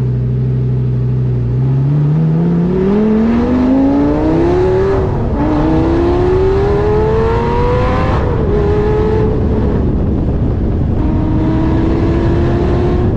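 Lamborghini Gallardo's V10 engine accelerating hard, its note rising steadily with the revs. Upshifts come about five and eight seconds in, where the pitch drops before climbing again; near the end it settles into a steadier, slowly rising note.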